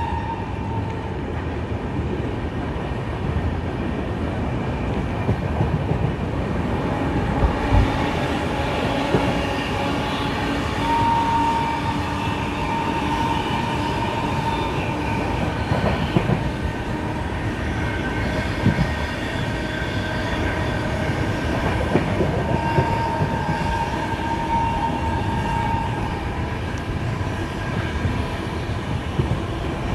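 Indian Railways sleeper coach running at speed: a steady rumble with wheels clacking over rail joints. A few brief high squealing tones from the wheels come about a third of the way in and again past the middle.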